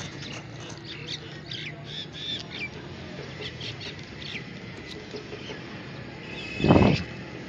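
Small birds chirping, many short calls. One short, louder burst of noise comes near the end.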